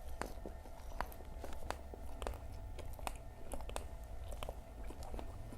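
A person chewing crispy fried fritters with their mouth close to the microphone: a run of sharp, irregular crunches.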